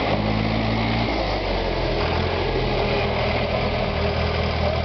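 SAME Tiger 60 4x4 tractor's diesel engine running steadily, its note shifting slightly about a second in.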